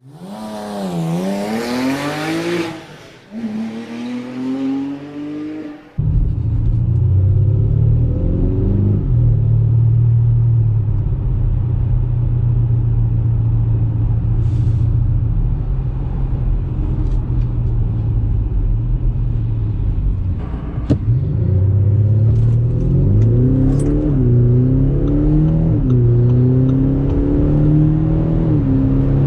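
Audi SQ5's 3.0 TDI V6 diesel engine revving, its pitch swooping up and down. About six seconds in the sound cuts to a steady low drone of the car driving, and near the end the engine pitch climbs and drops in steps through gear changes under acceleration.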